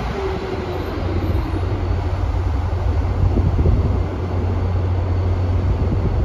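Amtrak Acela Express electric power car running at the platform: a steady, loud low rumble with an even hiss above it.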